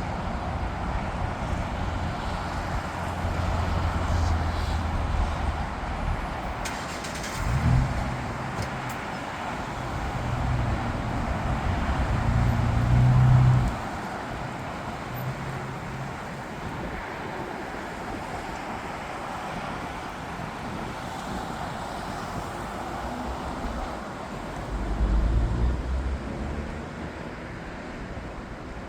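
Steady roar of airport and road traffic, with a few louder low rumbles; the strongest builds and then cuts off abruptly about 13 seconds in.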